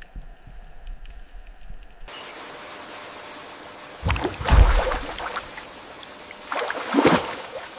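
Steady rush of flowing water, with two loud splashes about two and a half seconds apart.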